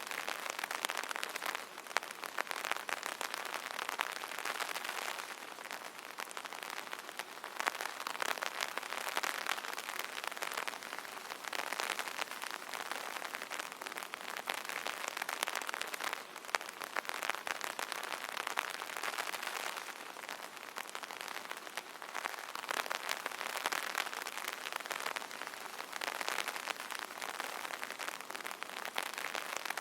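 Steady rain pattering on an umbrella canopy: a dense spread of drop taps that swells and eases every few seconds.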